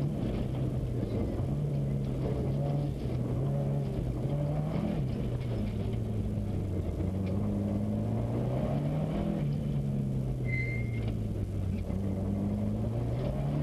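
Subaru Impreza's flat-four engine heard from inside the car, its revs rising and falling repeatedly as it is driven on snow.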